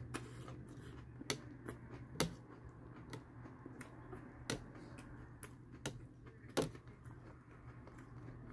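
Eating Cheerios cereal: scattered short, sharp clicks and crunches from chewing and from a metal spoon against a plastic bowl, a few seconds apart, over a steady low hum.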